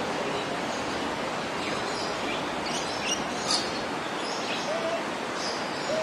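Birds in an aviary giving short, high chirps over a steady rushing background noise; the sharpest chirp comes about three and a half seconds in, and a couple of lower arching notes follow near the end.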